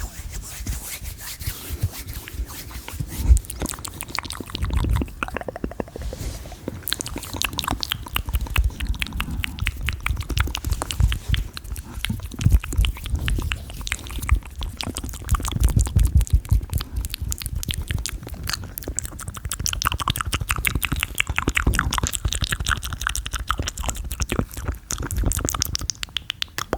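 Fast, aggressive ASMR mouth sounds made close to the microphone: a dense run of rapid clicks and pops.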